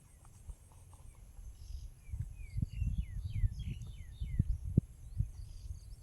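Crickets or other insects droning steadily, with a bird giving a quick run of short falling chirps a couple of seconds in. Under them come low thuds and a few sharp knocks.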